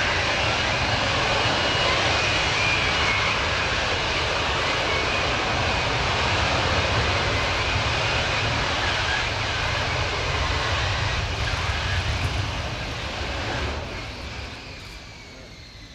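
Lockheed Martin F-35B's Pratt & Whitney F135 jet engine running loud during its vertical landing. The noise eases off about fourteen seconds in, leaving a fainter, falling whine.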